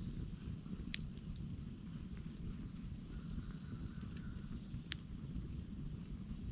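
Campfire burning: a steady low rumble with small scattered crackles and two sharper pops, one about a second in and one near five seconds.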